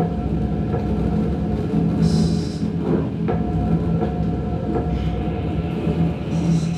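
Dark droning soundscape: a steady low rumble and hum, with a hissing swell that rises about every four seconds.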